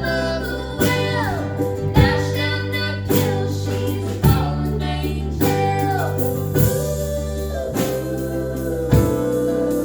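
Live band music: singing over guitar and a sustained bass line, with a strong beat accent about once a second.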